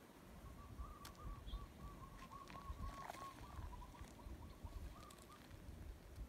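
Faint bird calling: a long, even run of short soft notes, several a second, stopping about five seconds in.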